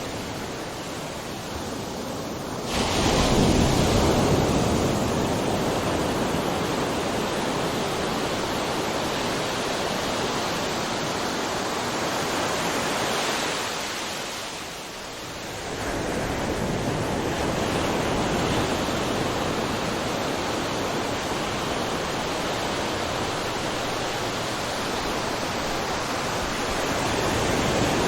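Ocean surf: a continuous wash of breaking waves. A wave crashes about three seconds in, the surf eases briefly around the middle, then builds again.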